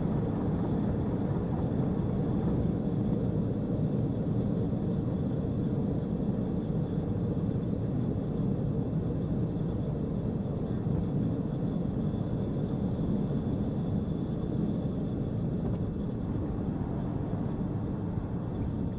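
Steady rumble of a vehicle driving at speed, engine, road and wind noise blended with no breaks.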